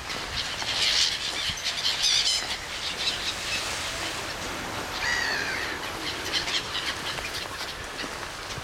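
Birds calling: a few separate calls about a second in and two seconds in, then a longer call about five seconds in, over a steady outdoor background hiss.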